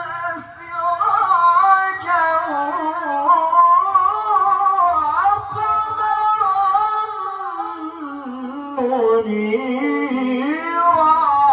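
A male qari reciting the Quran in melodic tilawah style, singing long drawn-out phrases with ornamented turns of pitch. The voice sinks to a lower pitch about eight seconds in, then climbs back up near the end.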